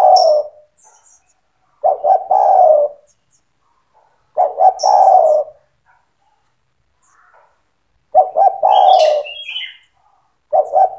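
Spotted dove cooing in repeated phrases, each a few short notes running into a longer coo, about every two to three seconds. A few high, thin chirps from a smaller bird come in between.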